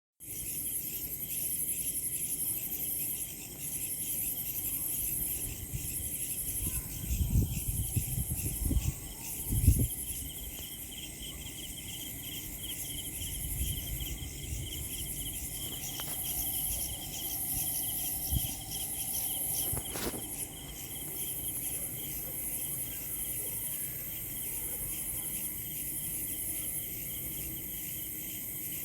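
Chorus of insects, crickets among them, trilling steadily in several pitch bands, the highest a shimmering, pulsing buzz. A few low thumps come about a third of the way through, and a sharp click about two-thirds in.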